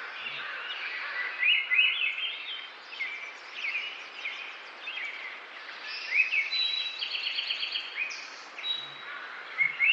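Songbirds chirping and singing over a faint steady outdoor hiss, with a quick run of repeated notes in the middle. A few short low pulses come near the end.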